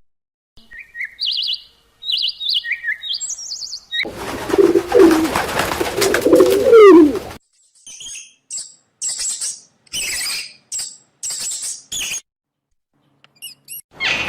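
A run of bird calls in separate snatches: quick high chirps, then a lower cooing with a rushing noise about four seconds in, then a series of short, very high peeps, with brief silences between.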